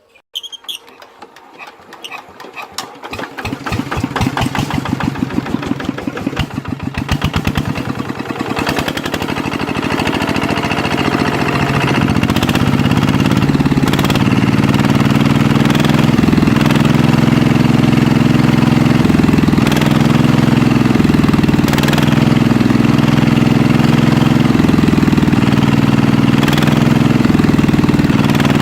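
Hand tractor's diesel engine starting: slow, separate firing beats that quicken over the first several seconds, then settle into steady running.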